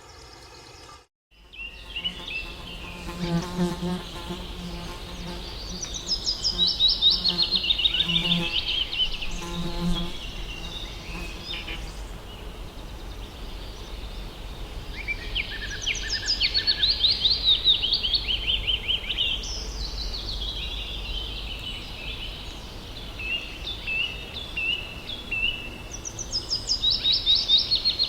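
Forest ambience: a songbird sings a fast descending trill, repeated several times, over a steady low rumble. Early on, an insect's buzz comes and goes in several short bouts, typical of a fly flying close by.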